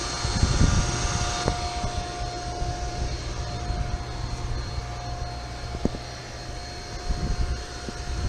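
Steady machinery drone from chiller equipment running, with a constant whining tone over a low rumble and a couple of light clicks.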